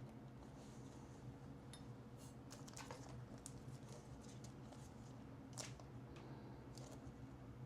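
Very quiet: a steady low hum with scattered faint clicks and rustles of trading cards being handled and stacked, a little busier a few seconds in, with one sharper click past the middle.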